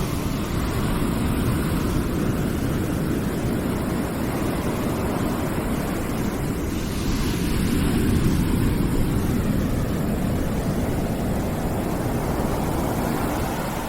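Steady rushing noise, heaviest in the low range, swelling slightly about halfway through.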